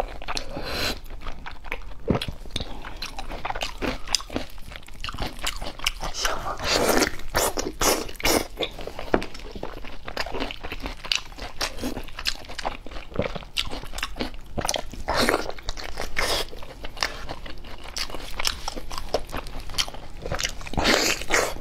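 Close-miked chewing and biting of braised poultry, a dense irregular run of mouth clicks and smacks.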